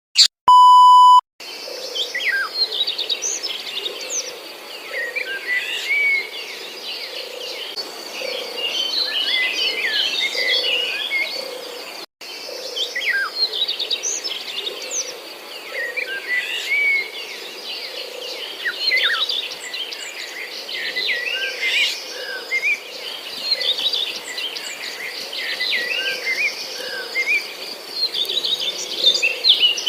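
Many small birds chirping and calling in a dense chorus of short, overlapping calls, over a steady high insect drone. A short electronic beep opens it, and the sound cuts out for an instant near the middle.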